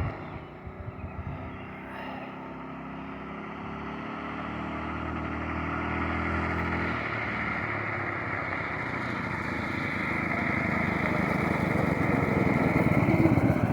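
Homemade trike's engine running, growing steadily louder as it comes closer, its firing pulses more distinct near the end.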